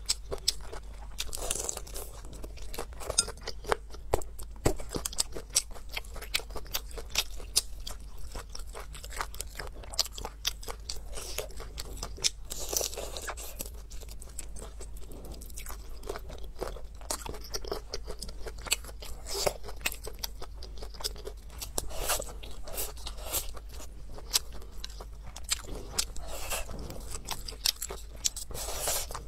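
Close-miked mouth sounds of a person chewing and biting braised pork belly and shrimp, a dense run of quick, irregular crunches and clicks over a steady low hum.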